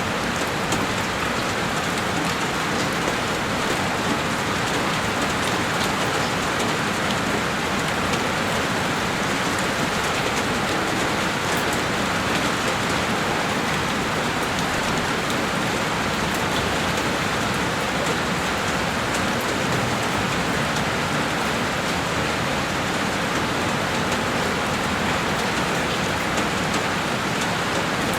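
Heavy rain falling steadily on a window, a dense even hiss with small drop ticks scattered through it.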